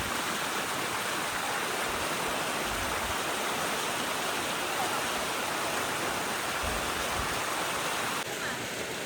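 Steady rush of falling water from a waterfall, an even wash of noise that drops off abruptly and grows quieter shortly before the end.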